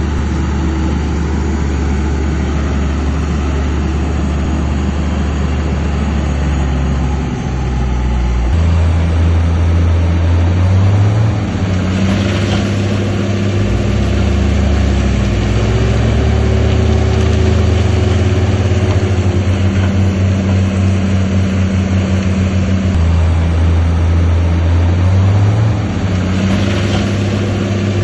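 Heavy diesel engine of earthmoving machinery running steadily, its pitch stepping up about a third of the way in and shifting again near the end. Two brief rushing noises come over it, one near the middle and one near the end.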